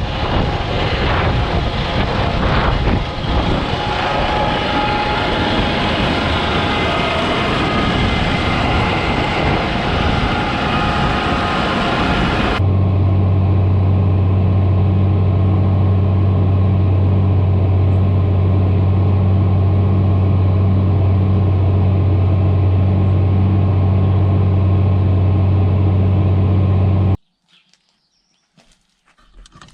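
John Deere tractor running steadily. About twelve seconds in, the sound switches abruptly to a steady low engine drone, and near the end it cuts off suddenly to near silence.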